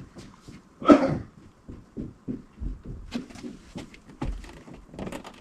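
Scattered light knocks and clicks of things being handled, with one louder, short noise about a second in.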